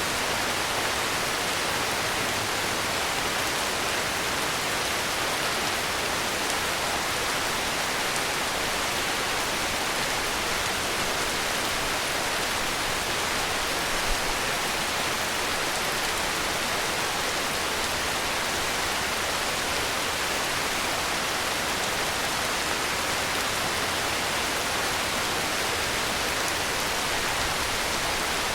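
Heavy rain falling steadily, an even, unbroken hiss. A brief low bump sounds about halfway through.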